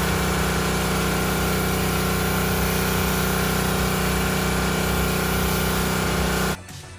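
Gas pressure washer running steadily, its engine's even drone mixed with the hiss of the water spray; it cuts off abruptly near the end.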